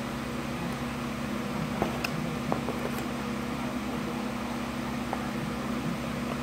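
Steady low electrical hum, with a few faint small clicks about two to three seconds in.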